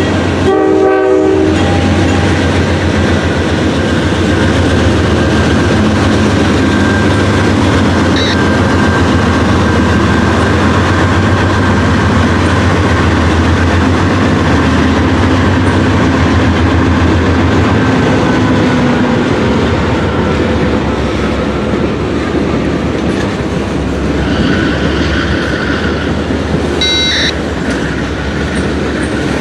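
A diesel train passing close by. Its horn sounds and ends about a second in, then a low engine drone and steady wheel clatter over the rail joints follow as the cars roll past, the drone fading out past the middle.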